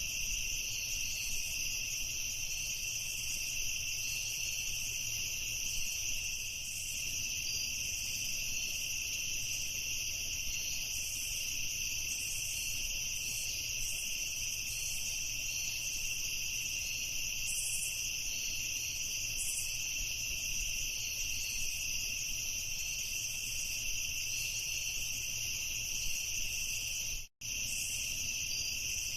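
A dense chorus of crickets chirping steadily at night, broken once near the end by a split-second dropout.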